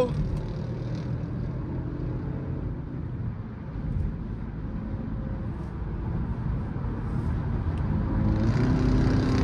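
Dodge Durango R/T's 5.7-litre Hemi V8 heard from inside the cabin at highway speed, over tyre and road noise; the engine note grows louder and rises in pitch over the second half as it accelerates.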